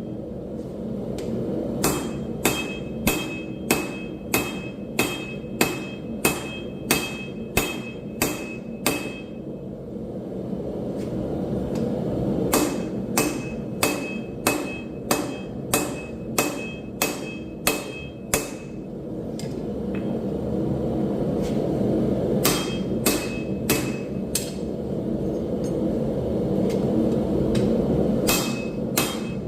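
Hand hammer striking hot railroad steel on an anvil, about one and a half blows a second with a clear ring, in runs broken by short pauses, over a steady rushing noise.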